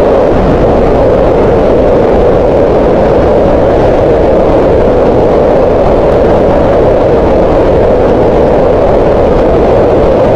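Green noise: steady, unchanging hiss-like noise with its energy centred in the mid range around 500 Hz, played continuously for relaxation or sleep.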